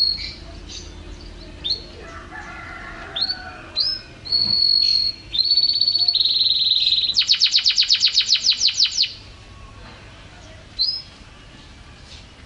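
White-rumped shama singing: short clear whistled notes with upward hooks, then a held whistle and a fast trill, then a rapid run of about nine repeated notes a second, before one more hooked note near the end.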